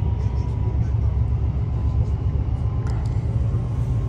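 Steady low rumble of a Greater Anglia electric passenger train running along the track, heard from inside the carriage, with a faint steady whine and a couple of faint clicks about three seconds in.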